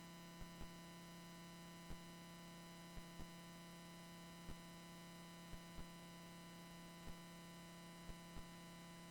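Near silence: a faint steady electrical hum with a few faint, irregular ticks.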